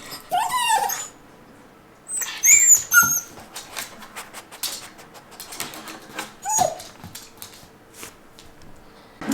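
Italian greyhound whining in three short high-pitched cries that rise and fall, with light clicks and taps in between.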